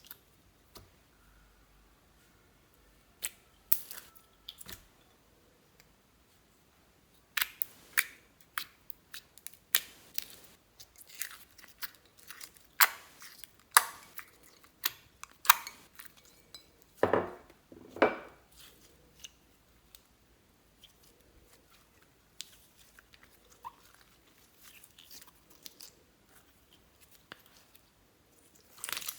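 Slime being squished and worked by hand, giving irregular sharp crackly pops and clicks that come in quick clusters. The first few seconds are nearly quiet, and the pops are thickest through the middle.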